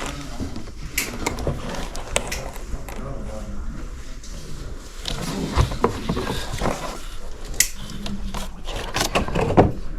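Indistinct voices in a room, with scattered clicks and knocks of small objects being handled.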